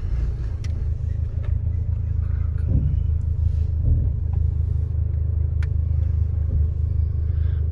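Toyota 3S-GE Beams inline-four engine in a Datsun 620 pickup, heard from inside the cab, running steadily with a low rumble and a few faint ticks.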